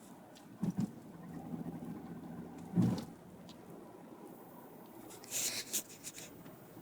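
Sporadic knocks from a 2004 BMW E60 on the move: two quick knocks, then a louder one about three seconds in, over a low hum that swells for a couple of seconds, with scratchy rustles near the end. The rattle comes mostly under load, and the owner suspects it comes from the lower rear of the car.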